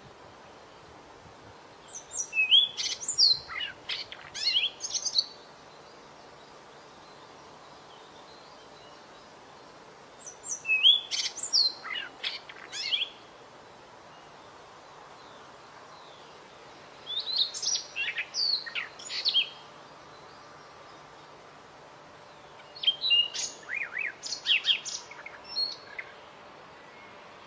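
A small songbird sings four short phrases of quick, high whistles and chirps, each two to three seconds long, with a pause of several seconds between them, over a steady faint hiss.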